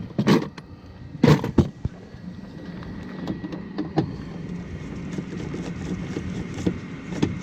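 A few sharp knocks and clunks of items being handled and set down, then steady rain noise.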